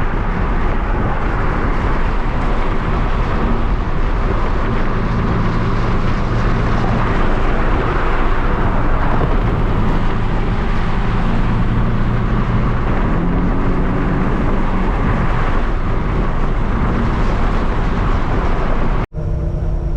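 A motor vehicle being driven: steady engine and road noise, with the engine's pitch shifting a few times. It cuts out abruptly about a second before the end.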